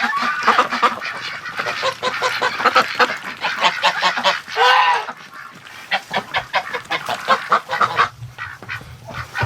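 A flock of domestic ducks and geese calling: many short, overlapping quacks and honks, with one longer goose call about halfway through and sparser calling after it.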